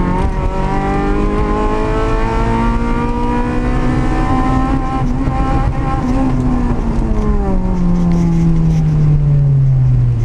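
Citroën Saxo VTS 16v's 1.6-litre four-cylinder engine heard from inside the cabin. Its revs climb gradually for about five seconds, then fall steadily through the last four seconds.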